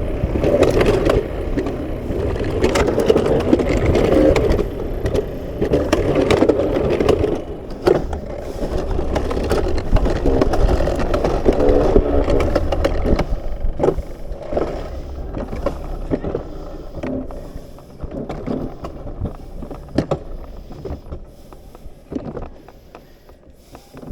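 Alpine coaster sled rolling along its rail, a steady rumble with many rattling clicks that grows gradually quieter over the second half.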